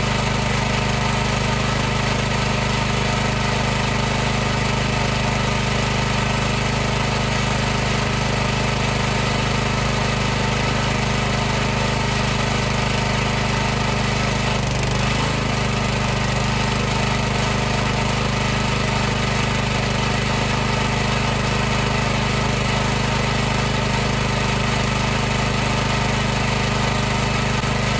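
High-pressure washer running steadily, its motor and pump making a continuous hum with a faint wobble in pitch about halfway through.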